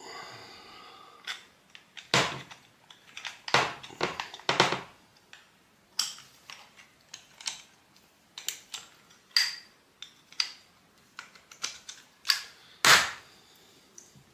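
Small metal brake caliper parts being handled and fitted together, giving irregular clicks and knocks. There is a brief metallic ring right at the start and a louder knock near the end.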